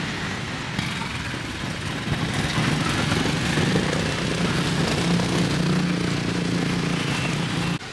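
Street traffic with a motorbike engine running, a low steady hum that grows stronger about halfway through, over the general noise of the street. It all cuts off suddenly just before the end.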